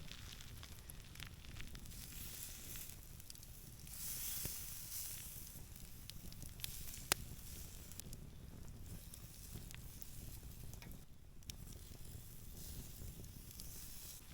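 Pork searing in a stainless steel pan over campfire coals: a steady sizzle that swells about four seconds in, with one sharp pop about halfway through.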